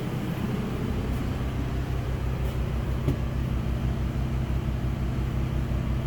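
Champion 3100 W dual fuel inverter generator running steadily under load from an air conditioner and a microwave. It is idled up to carry the load, with a low, even throb under a steady hum.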